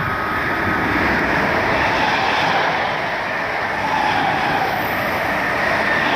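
Electric multiple-unit passenger train running past at speed on the adjacent track: steady noise of wheels on rails with a faint whine from the train.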